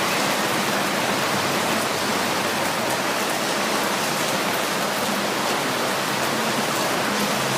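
Heavy rain falling, a steady dense hiss of rain on hard surfaces.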